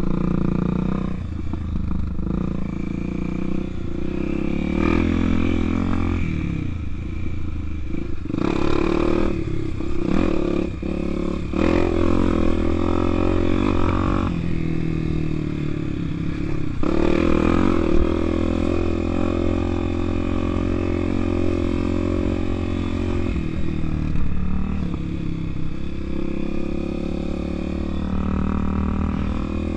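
Honda Tornado's 250 cc single-cylinder four-stroke engine running as the bike is ridden, its revs rising and falling several times through the gears.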